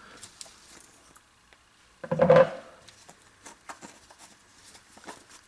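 Light clicks and handling noise of sink strainer parts being worked by hand, with one louder short clatter about two seconds in.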